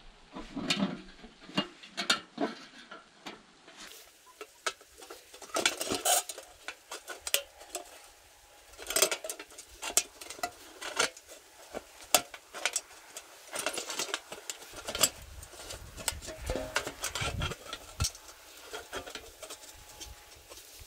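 Irregular metallic clinks, knocks and scrapes from working on an old rusted steel boiling tub being cut and fitted as a stove chimney, some strikes ringing briefly.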